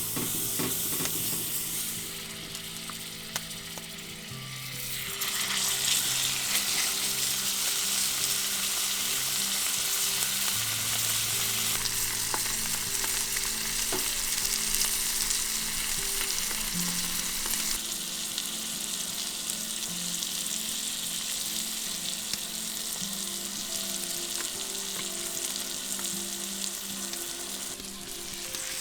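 Meat frying in a hot pan: a steady sizzle that gets louder about five seconds in and keeps on.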